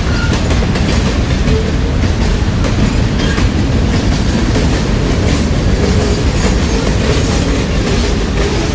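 A train rolling past close by: a steady, loud rumble with wheels clicking over the rail joints.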